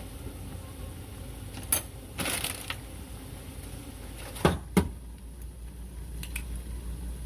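A few household clicks and knocks over a low steady hum: one sharp click, a brief rustle, then two sharp knocks in quick succession about halfway through.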